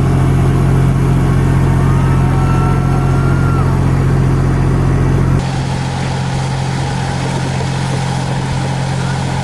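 An engine running with a steady, even hum. About halfway through, the sound cuts abruptly to a different, noisier outdoor background.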